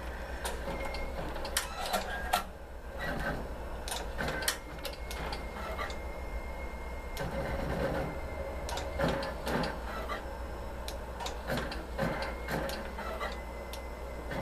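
Butterfly embroidery machine being checked by hand: irregular clicks and taps of its metal parts with short motor whirs, over a steady low hum. It is being examined because it jams on caps and breaks needles.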